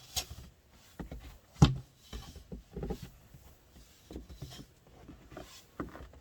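Snow shovel knocking and scraping in deep snow in irregular strokes, with one sharp knock about a second and a half in.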